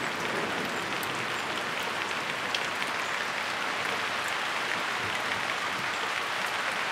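Heavy rain falling in a steady downpour: an even hiss with faint scattered ticks of drops.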